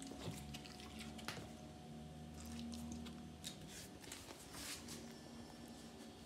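Faint wet snuffling and mouth noises from a pit bull with a runny nose from kennel cough, with a few soft sniffs.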